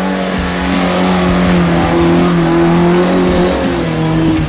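Off-road 4x4's engine running at high revs, its pitch held fairly steady with a slight rise about two seconds in.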